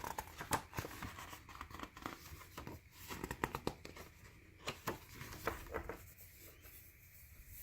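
Paper handling: soft rustles and light clicks as the pages of a handmade journal are turned and handled, thinning out near the end.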